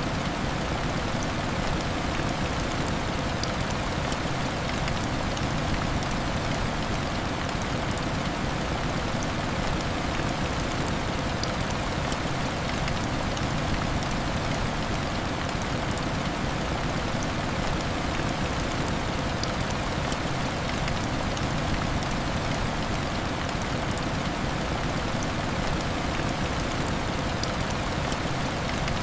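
Steady heavy rain beating on a glass window, an even wash of noise with many small scattered ticks of drops.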